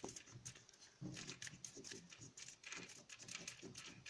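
Faint, irregular clicking and rustling of a metal clutch cable end fitting being screwed by hand onto the threaded end of a car's clutch release cable.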